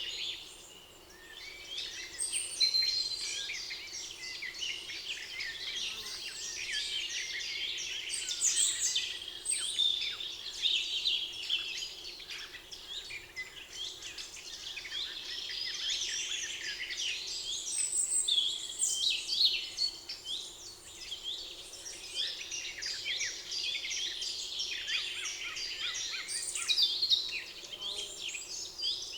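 Several songbirds singing at once in a spring forest: a dense, continuous chorus of overlapping high chirps and trills.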